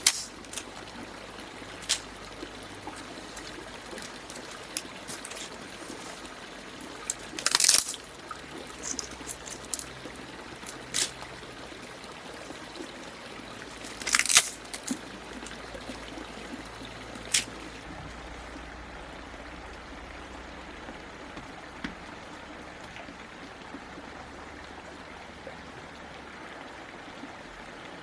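Water trickling steadily, like a small stream, with a few scattered sharp knocks or clicks, two of them louder, about a third and halfway through.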